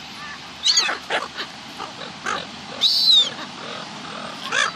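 Gulls calling harshly as they fight over food: a cluster of loud calls about a second in, a longer falling call at around three seconds, and another call near the end.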